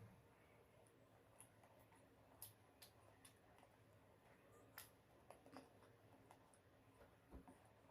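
Quiet eating: faint, scattered clicks from chewing and mouth sounds, nearly silent overall.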